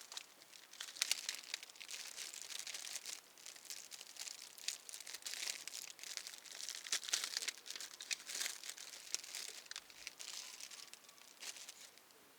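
Plastic bag or packaging being handled, crinkling and rustling in uneven spurts, stopping shortly before the end.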